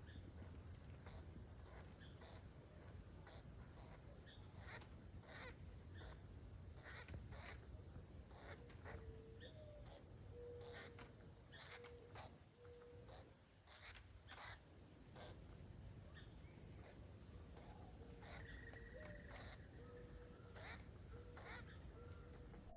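Faint, steady high-pitched drone with many short, irregular buzzy notes over it, the buzzing calls of a juvenile pileated woodpecker, plus a few brief low tones in the middle and near the end.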